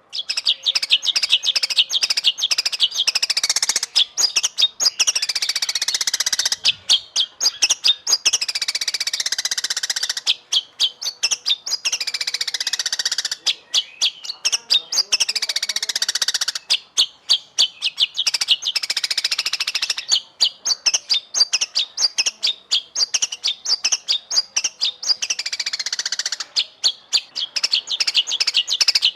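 White-rumped shama (murai batu) singing a long, fast song of rapid high-pitched chirps broken by repeated downward-sliding whistles.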